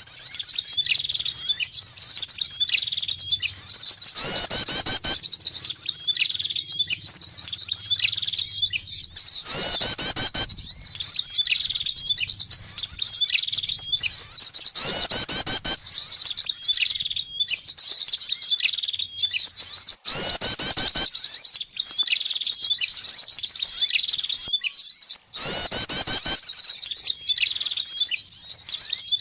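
Bird-lure recording of small songbirds chirping fast and nonstop in high, dense trills. About every five seconds a harsher, fuller call breaks in.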